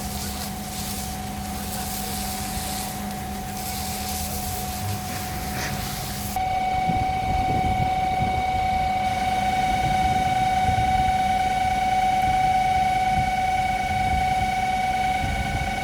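A machine running with a steady high-pitched whine over a rumbling noise. About six seconds in it jumps louder and the whine turns richer and brighter.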